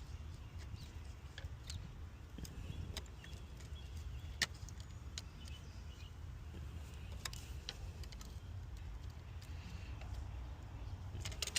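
Scattered sharp clicks and taps of pliers working on a coolant temperature sensor in the engine bay, over a steady low rumble. The loudest click comes about four and a half seconds in, with a quick cluster near the end.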